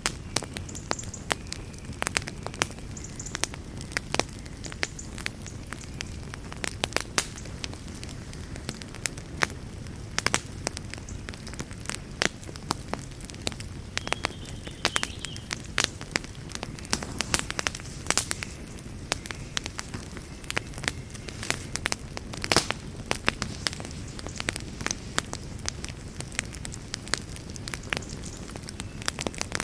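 Wood campfire burning, with frequent sharp irregular crackles and pops over a steady low rush of flame.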